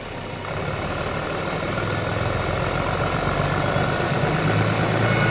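A train approaching, its running noise of low engine hum and rail sound growing steadily louder, with thin high-pitched whining tones coming in near the end.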